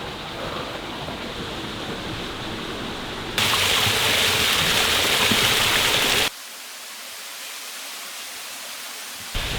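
Steady rush of a waterfall and stream, changing abruptly twice: louder and brighter about a third of the way in, then quieter and thinner about two-thirds in.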